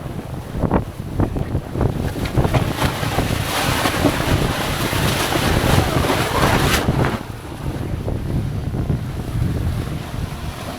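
Wind buffeting the microphone on a sailboat under way, over the rush of water and waves. It is loudest in the middle and eases off a little about seven seconds in.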